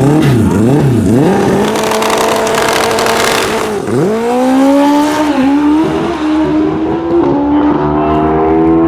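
Pro Street drag motorcycle engine revving up and down on the start line, then held at steady revs, then launching about four seconds in: the pitch climbs, dropping briefly at each of several gear changes.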